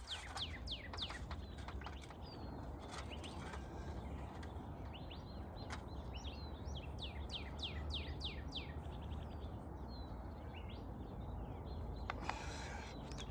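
Bird calling: quick runs of short, high chirps, each sweeping downward, over a low steady hum.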